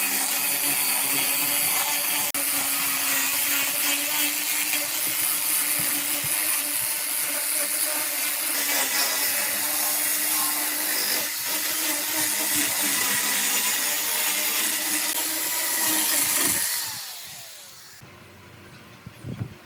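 Electric power tool running on wood, with a steady hum under a dense noise of cutting or sanding. About 17 seconds in it is switched off and its motor winds down, the pitch falling.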